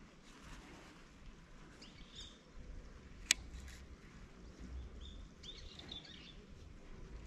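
Birds chirping in short calls about two seconds in and again around five to six seconds, over low background noise, with one sharp click a little past three seconds.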